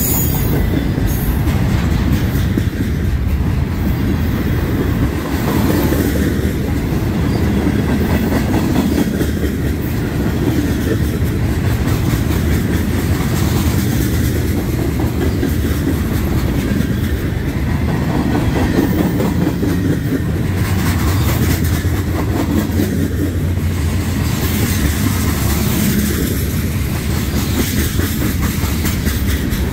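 Canadian National freight train's mixed cars (flatcars, covered hoppers, tank cars) rolling steadily past, steel wheels on the rails with repeated clicks over a continuous low rumble.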